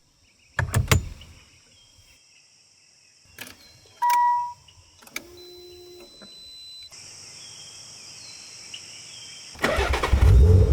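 Nissan 300ZX twin turbo's engine cranking and firing up near the end, settling into a low rumble. Before it there are a few sharp clicks and a short single-pitch beep.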